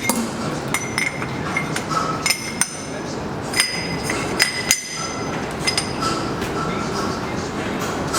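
Hammer striking metal in a series of irregular blows, each ringing on briefly, over steady workshop background noise.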